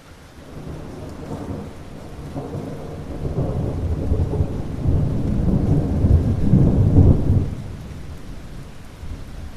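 Steady rain with a long rolling rumble of thunder that builds over several seconds, is loudest about seven seconds in, then dies away.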